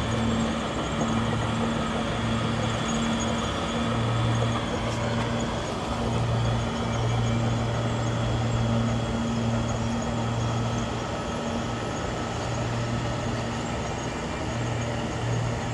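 Bulldozer's diesel engine running steadily with a low drone that swells and eases slightly.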